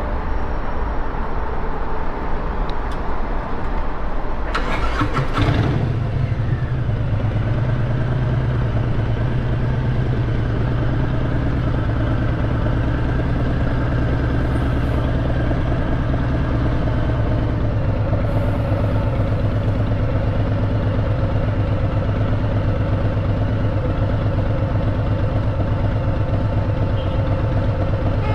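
Harley-Davidson V-twin engine starting about five seconds in, then idling steadily.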